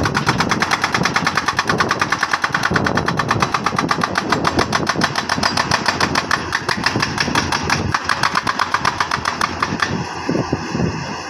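Jackhammer hammering rock with fast, even blows that stop about ten seconds in, leaving a steady engine running.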